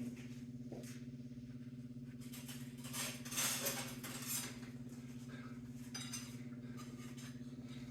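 Faint rustling and a few light clinks of metal pieces being handled, over a steady low electrical hum.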